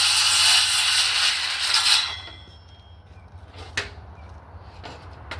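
Handheld circular saw cutting a 45-degree bevel through wooden casing trim, the cut cutting off about two seconds in with a faint whine trailing for about a second. Two sharp knocks follow, one near four seconds and one near the end.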